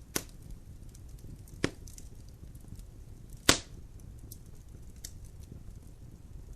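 Logs burning in a fireplace: three sharp pops of crackling wood, the loudest about three and a half seconds in, with faint small ticks over a steady low rumble of the fire.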